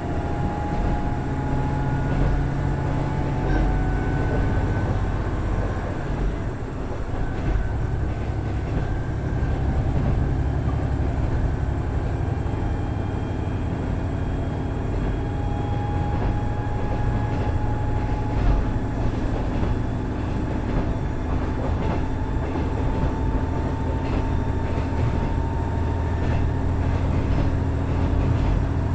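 KiHa 110 series 200 diesel railcar running, its Cummins DMF14HZA diesel engine giving a steady low drone. A faint whine above it glides slowly in pitch.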